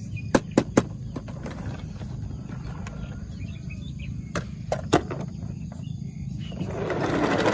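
Several sharp clicks over a steady low hum: three in quick succession just under a second in, and three more about four and a half to five seconds in.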